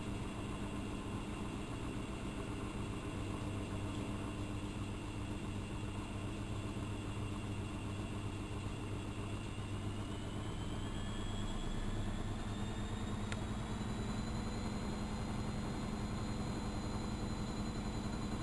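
AEG Electrolux Lavamat L6461 washing machine running with a steady hum. Its motor whine rises in pitch about halfway through, then holds at the higher pitch as the drum speeds up.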